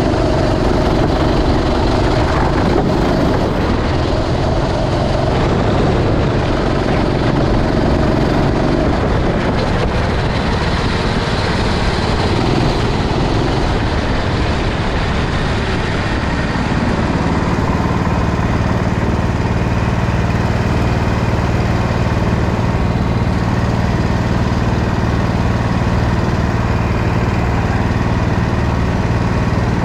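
Racing kart engine running continuously at speed, heard close up. The engine note is higher for the first several seconds, then settles lower and steadier for the second half.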